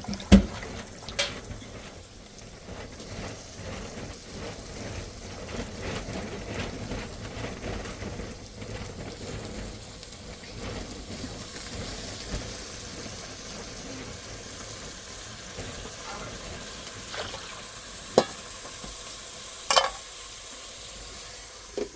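Food sizzling as it fries in a pan, with a few sharp knocks of a utensil against the pan near the start and again near the end.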